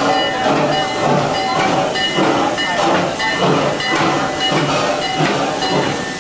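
Passenger train running: a steady hiss with a repeating rhythmic beat, about two strokes a second, and faint steady tones.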